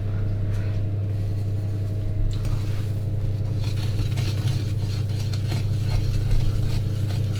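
A steady low hum, with faint scraping and tapping of a whisk beating cake batter in a bowl.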